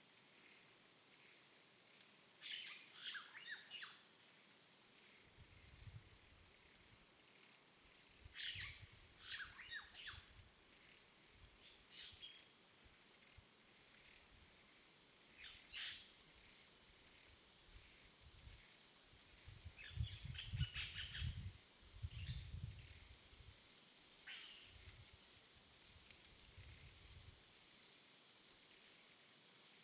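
Faint birds chirping in short, scattered bursts, busiest about two thirds of the way through, over a steady high-pitched insect drone. Soft low rumbles come and go beneath the chirps.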